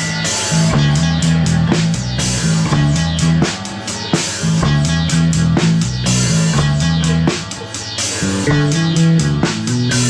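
Rock music: a drum kit keeps a steady beat under a moving bass line and guitar.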